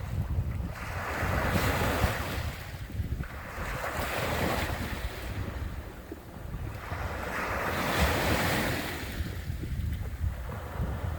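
Sea waves washing in, the surf swelling and falling away every two to three seconds, with wind buffeting the microphone as a steady low rumble.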